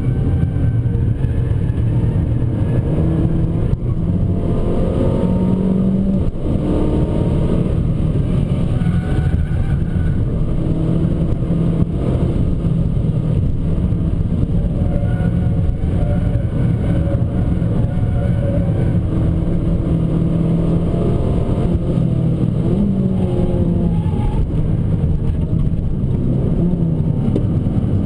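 Abarth 595 Competizione's turbocharged 1.4-litre four-cylinder engine driven hard on track. Its note climbs and drops repeatedly as it revs through the gears, over steady road noise.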